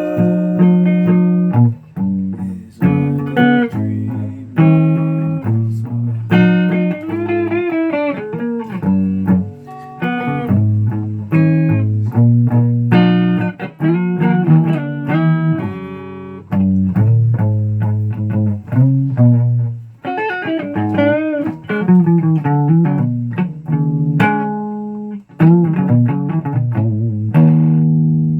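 Guitar music: a run of single plucked notes over a low bass line, some notes bent and wavering in pitch.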